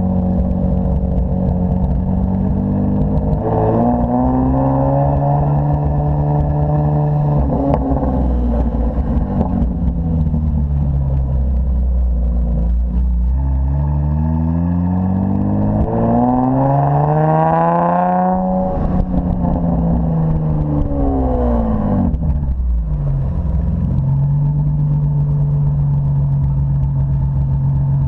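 Nissan 350Z's 3.5-litre V6 through aftermarket headers, test pipe and resonated X-pipe exhaust, revs rising and falling several times. The hardest climb, about two-thirds of the way through, cuts off sharply; the revs then drop and hold steady near the end.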